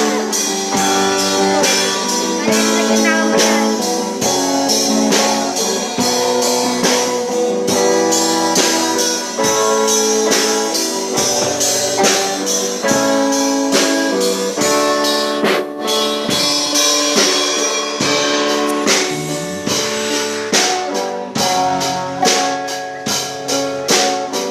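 Live band music: a drum kit keeps a steady beat under guitars and other pitched instruments.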